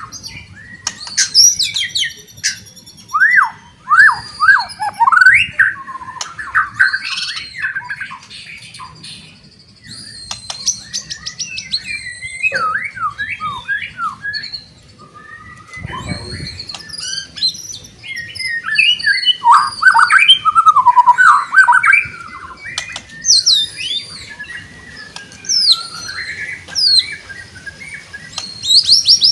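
White-rumped shama (murai batu) singing loudly: varied phrases of rapid whistles, slurred notes and trills, delivered in bursts with short pauses between them.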